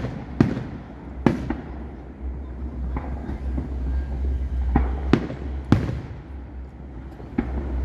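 Fireworks display with aerial shell bursts going off as sharp bangs, about seven in under eight seconds at uneven spacing, over a steady low rumble.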